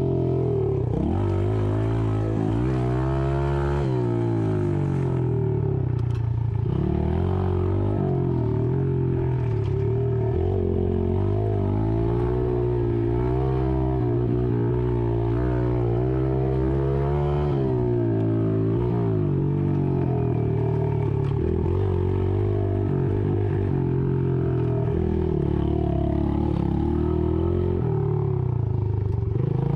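An engine running continuously, its pitch rising and falling again and again as the throttle or load changes.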